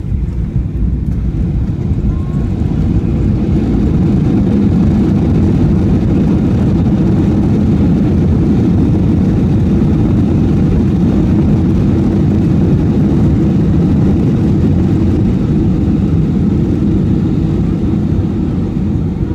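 Airliner cabin noise during the landing roll: a loud steady rumble of engines and wheels on the runway, heard from inside the cabin. It swells a few seconds in and eases slightly near the end.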